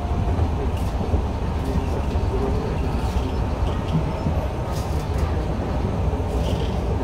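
Enshu Railway 2000 series electric train running along the line, heard from inside the car: a steady low rumble of wheels on rail with a few faint clicks.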